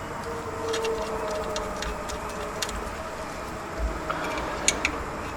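Scattered light metallic clicks and taps of engine parts and tools being handled and worked into position, over a faint steady hum.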